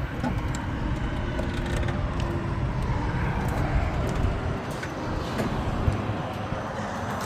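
Steady rumble of motor vehicles and road traffic, a low engine drone under a haze of traffic noise.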